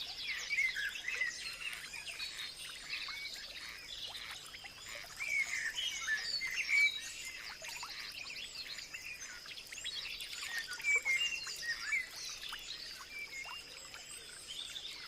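Several birds singing and calling at once, a dense chorus of short chirps and trills, over a steady high-pitched tone.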